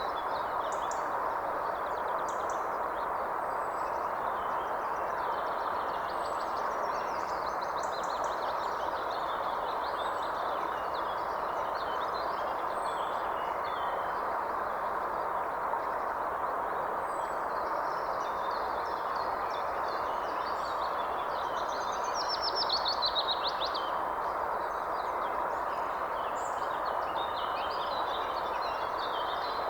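Several wild birds chirping and singing over a steady hiss of background noise, with one louder burst of song about three quarters of the way through.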